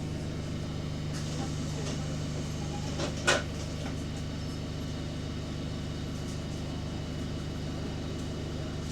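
Bus engine running steadily at a constant pitch, with one sharp knock about three seconds in.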